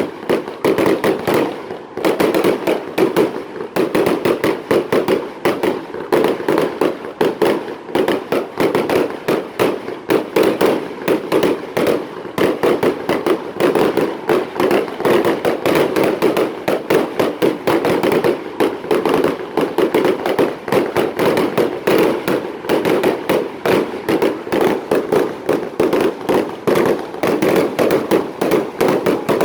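Fireworks going off in a dense, continuous barrage of rapid pops and cracks, with no pause.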